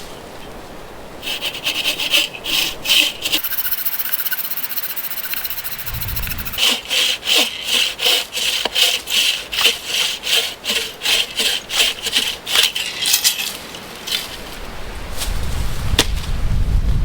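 Hand saw cutting through wood in quick back-and-forth strokes, about two to three a second, in two runs with a pause between. A low rumble comes up near the end.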